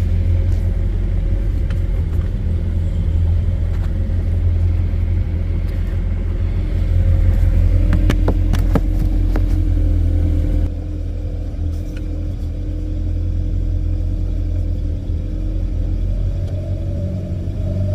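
Bayliner Capri boat engine running with a heavy low rumble and a steady hum; the level drops about two-thirds through and the pitch rises a little near the end. The owner calls its running buggy and thinks the hard-starting engine's carburetor needs rebuilding.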